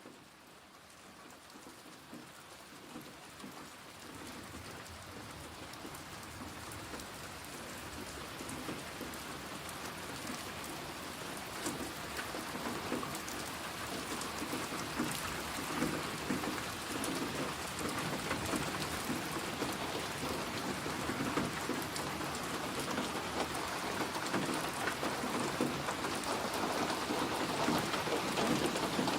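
Steady rain falling, a dense patter of drops on a surface, fading in from faint at the start and growing gradually louder throughout.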